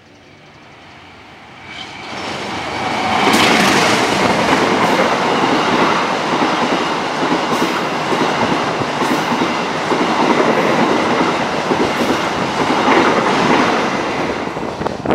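Diesel-hauled passenger train approaching and passing close by: the sound grows about two seconds in as the locomotive arrives, then the coaches roll past with repeated wheel clacks over the rail joints, falling away right at the end.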